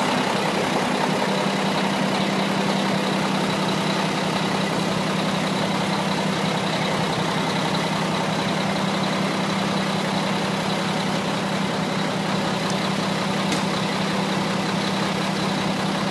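Mack vacuum truck's diesel engine running steadily, with an even hum.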